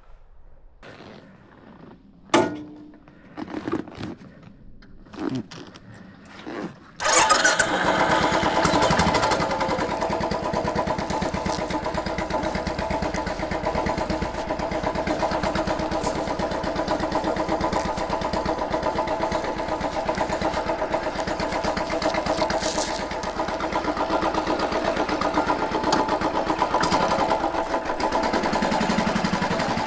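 A few knocks in near quiet, then about seven seconds in a Royal Enfield Bullet 500's single-cylinder engine starts and settles into a steady idle.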